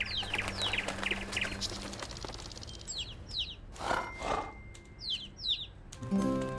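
Small birds chirping in short, falling two-note chirps every couple of seconds. A brief two-part sound comes about four seconds in, and music starts near the end.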